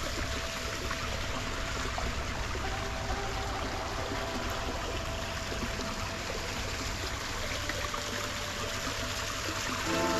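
Garden fountain water splashing and trickling steadily.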